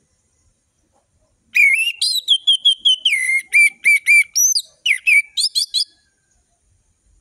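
Orange-headed thrush singing one loud phrase of clear whistled notes, starting about one and a half seconds in: a rapid run of repeated notes, ending with a few quick rising notes, about four seconds long.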